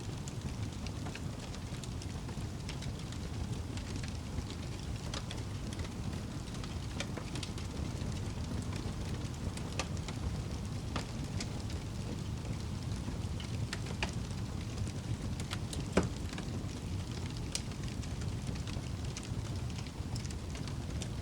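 Wood fire crackling: a steady low rumble of the flames with scattered sharp pops and snaps, the loudest pop about sixteen seconds in.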